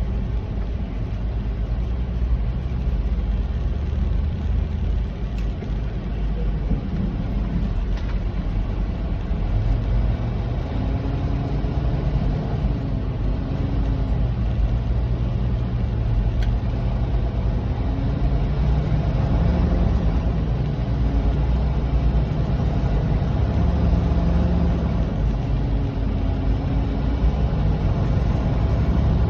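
Kenworth semi truck's diesel engine and road noise heard from inside the cab while driving: a steady low rumble, with the engine note shifting up and down several times in the second half.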